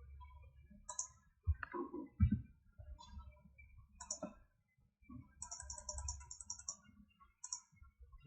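Computer mouse clicks and a short quick run of keyboard keystrokes over a low steady hum, the sound of dimension values being clicked and typed in.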